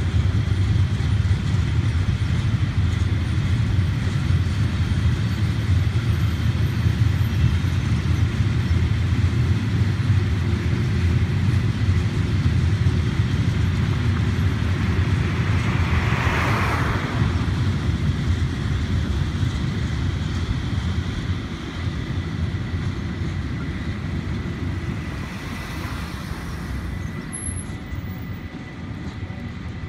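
Railpro ballast hopper wagons rolling past on the track, a steady low rumble of wheels on rails that fades as the train moves off near the end. A brief louder hiss comes about halfway through.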